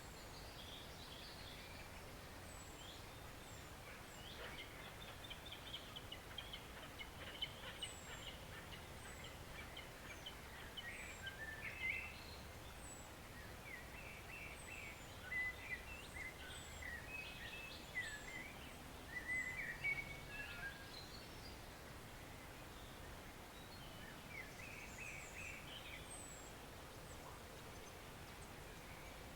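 Woodland stream running as a steady, even rush, with several songbirds singing over it: busy warbling phrases, plus a run of thin, very high notes that fall in pitch and repeat every second or so.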